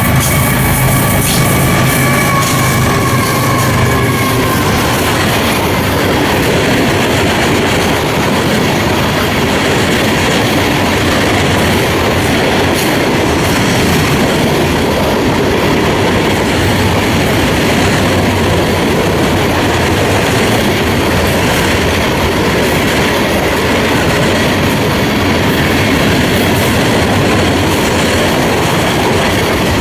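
Florida East Coast freight train passing close by: the last of its horn fades out in the first few seconds, then the steady rumble and clickety-clack of freight cars rolling past.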